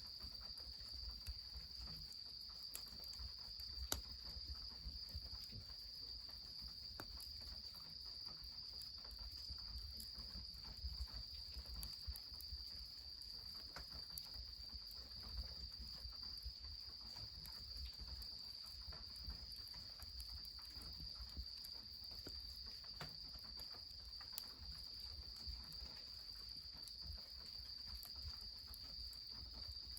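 Insects chirring steadily in one high, unbroken tone, over scattered small crackles of a wood fire, with a sharper snap about four seconds in, and a low rumble of running water beneath.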